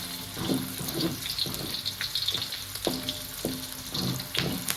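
Spice paste, onions and garlic sizzling in hot oil as they are stirred. The spatula scrapes and knocks against the pan every half second to a second.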